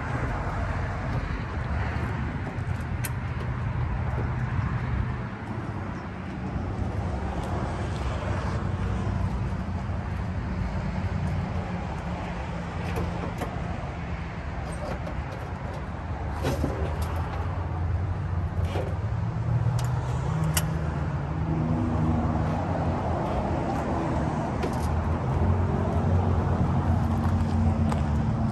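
A 1929 Cord L-29's Lycoming straight-eight engine idling steadily, with a few sharp clicks; the idle sits a little higher in the second half.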